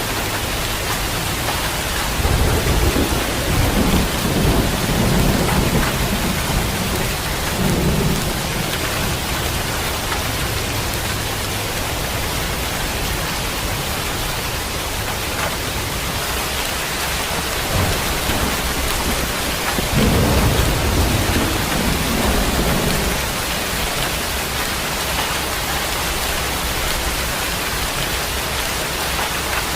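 Steady heavy rain pouring, with rolls of thunder rumbling deep from about two seconds in to six, briefly near eight seconds, and again from about twenty seconds in.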